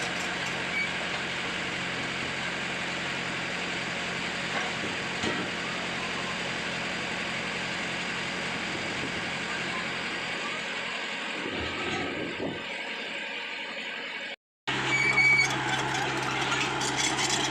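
Komatsu PC75UU excavator's diesel engine running steadily as the machine works. It cuts out for a moment near the end, then returns with a slightly lower hum and scattered knocks.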